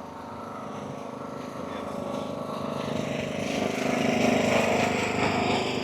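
A train passing, its engine a steady multi-toned drone with a rising rushing noise, building to its loudest about four seconds in and then easing off.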